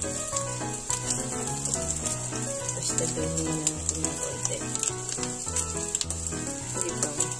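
Sardine-and-egg omelettes sizzling in hot oil in a frying pan, with a steady hiss and scattered sharp pops of spattering oil.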